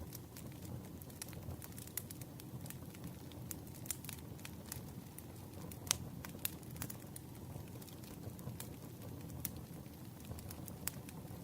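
Campfire burning with a soft low rumble and irregular crackles and pops, a sharper pop about six seconds in.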